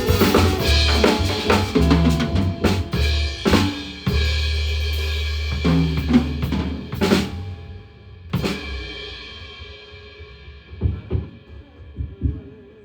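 Drum kit played in a band sound check: bass drum, snare, rimshots and cymbal crashes struck in a loose, broken pattern over a held low bass note. The playing thins out after about eight seconds, leaving a few quieter hits near the end.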